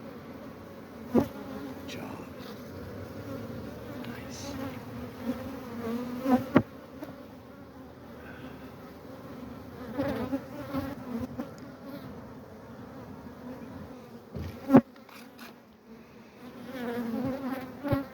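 Honey bees buzzing in a steady hum around an open hive full of honey, swelling and easing at times. A few sharp knocks break in, the loudest about 15 seconds in.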